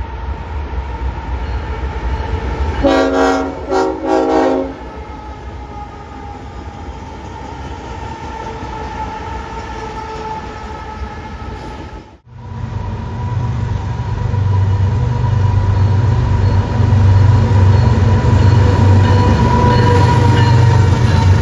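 A train rumbling past, its multi-tone horn sounding in about three short blasts about three seconds in. After a cut about twelve seconds in, a steady engine drone with a strong low hum builds and grows louder.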